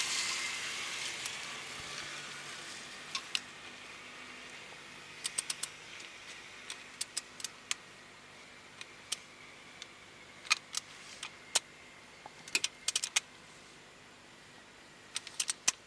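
Sharp metallic clicks and clinks from hand tools on the engine as the timing-belt tensioner is bolted in. They come one at a time and in short quick clusters.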